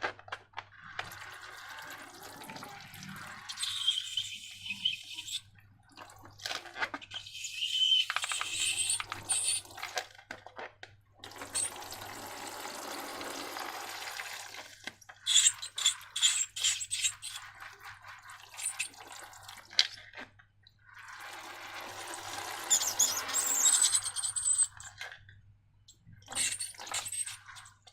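Liquid slime being poured and worked, wet pouring and squelching in several bursts of a few seconds each, with quieter clicky stretches between them.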